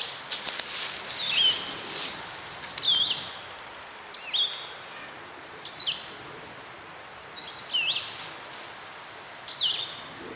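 A downed wild turkey flopping and flapping in the dry leaves for the first two seconds. Then a songbird repeats a short swooping chirp about every second and a half.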